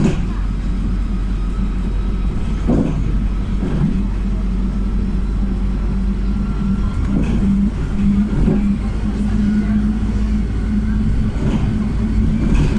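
Cabin noise of a PAZ 320414-04 Vector city bus under way: its YaMZ-53423 compressed-natural-gas engine drones steadily over a low road rumble. A few short knocks and rattles come through the body at intervals.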